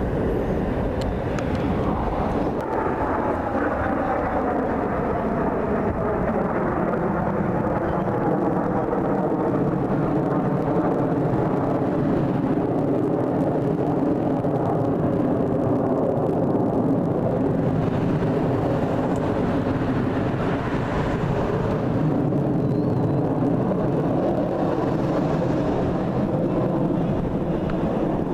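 Aircraft engine noise from a plane passing. The engine pitch falls from about three seconds in, then settles into a steady drone that lasts the rest of the time.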